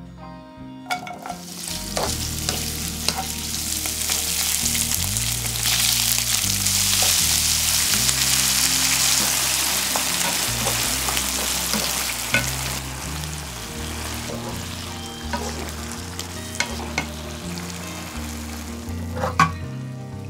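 Cherry tomatoes, onion and sausage pieces sizzling as they stir-fry in oil in a frying pan, with a wooden spatula clicking and scraping against the pan. The sizzle builds over the first few seconds and eases off in the second half. Soft background music plays underneath.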